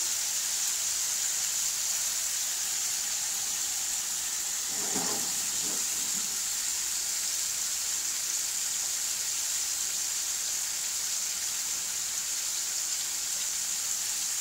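Chicken pieces sizzling steadily in a wok: a constant high hiss of frying.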